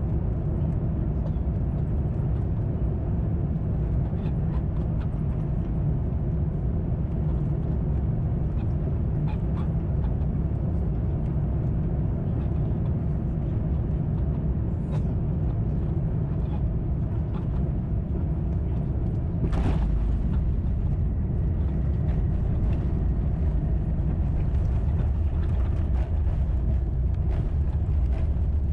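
Steady low rumble of an Airbus A350-900 cabin at a window seat, the airflow and Rolls-Royce Trent XWB engine noise of an airliner descending on final approach. A brief thump comes about twenty seconds in, after which the rumble grows slightly louder.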